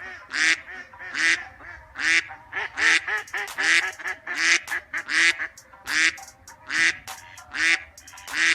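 Duck quacking over and over, a loud quack about every second with softer quacks in between.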